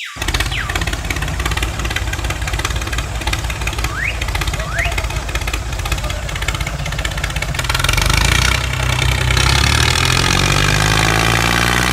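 Engine running steadily with a low rumble, starting abruptly and growing a little louder about eight seconds in.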